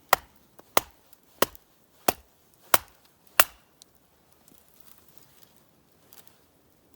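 Firewood being chopped: six sharp blows, about two-thirds of a second apart, which stop about halfway through.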